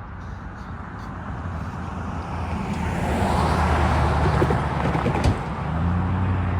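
Diesel freight train passing at the crossing: a steady low engine drone with wheel and rail noise that swells to its loudest about halfway through, and a sharp clank a little after five seconds.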